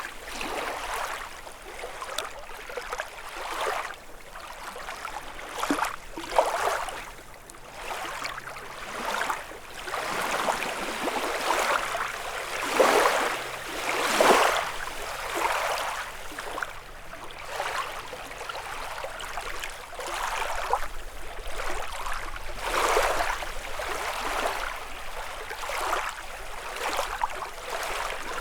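Small lake waves lapping and splashing against the shore in irregular swells every second or two, a little louder near the middle.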